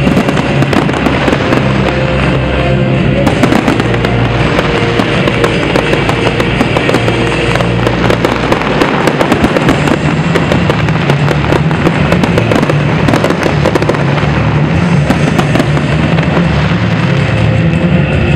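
Fireworks display going off in dense, continuous crackling and popping, over loud music.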